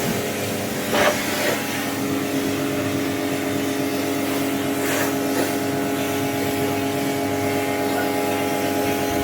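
Pressure washer running steadily, its motor and pump humming under the hiss of the spray, with a brief louder burst about a second in.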